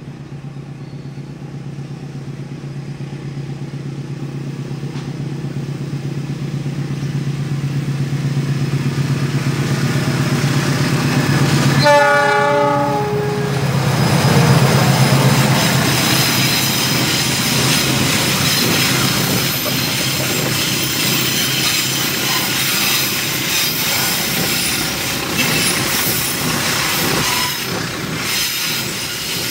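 CC 206 diesel-electric locomotive hauling a freight train, its engine drone growing louder as it approaches. About twelve seconds in it gives one short horn blast, then it passes close by and the covered freight wagons roll past with steady wheel-on-rail noise.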